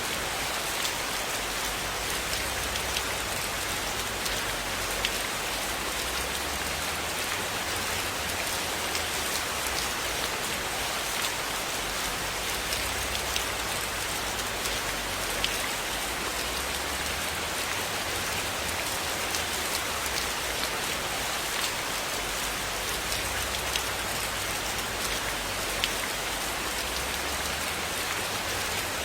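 Steady rain pattering on a surface, with scattered sharp ticks of individual drops or crackles throughout.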